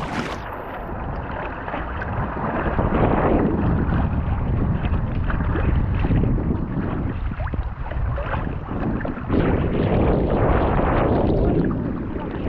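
Wind buffeting the microphone in gusts that swell and ease every few seconds, over the wash of water around a kayak being paddled.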